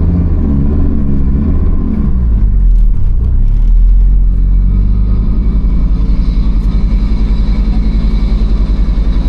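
Fiat Marea's forged 2.4 five-cylinder engine, built to over 700 hp, running at idle. It swells louder for a couple of seconds about two and a half seconds in, then settles into an even, pulsing idle beat.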